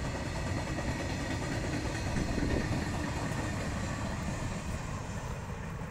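Freight wagons of a coal train rolling past on the rails: a steady rumble of wheels on track with a faint high ringing above it, as the last wagons and the guard's brake van go by.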